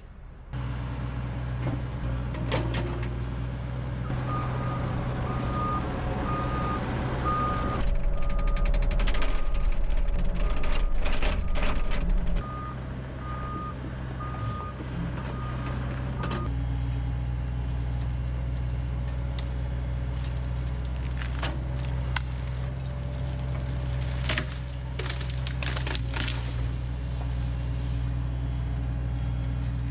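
A heavy machine's diesel engine running steadily, with its backup alarm beeping at an even pace from about four seconds in until about sixteen seconds in. The engine gets louder, with a deeper rumble, for a few seconds in the middle while the alarm is sounding.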